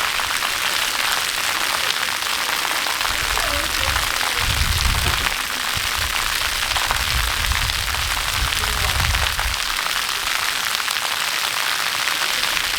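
Steady rushing hiss of falling water from a waterfall, with low rumbles coming and going between about three and ten seconds in.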